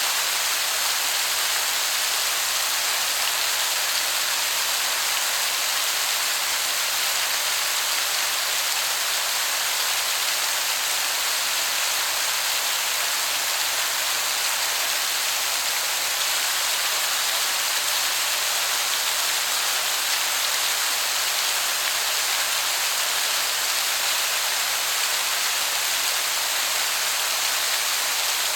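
Waterfall heard as a steady, even hiss, bright and with little low rumble, so that it sounds more like heavy rain than falling water.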